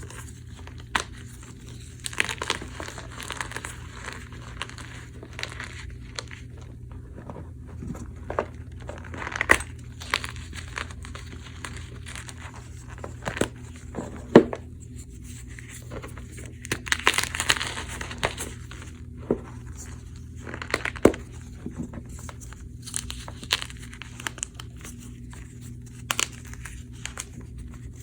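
Blocks of gym chalk crushed by hand, crumbling and crunching with scattered sharp cracks, one especially loud snap about halfway through.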